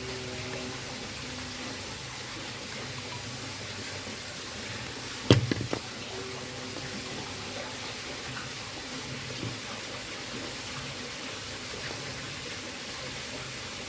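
Steady background hiss, with a single sharp knock about five seconds in followed by a quick short rattle: a part or tool being handled during work on the washing machine.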